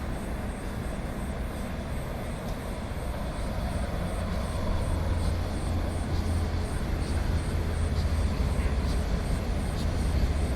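A low, steady vehicle rumble that slowly grows louder, as of heavy traffic or an approaching engine.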